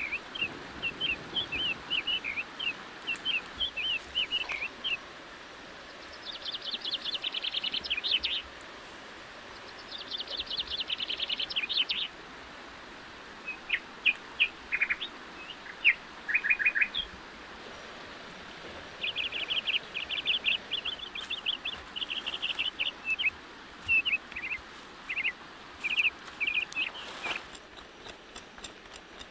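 Birds singing in the surrounding forest: strings of short high chirps, broken by several fast trills that last a second or two each.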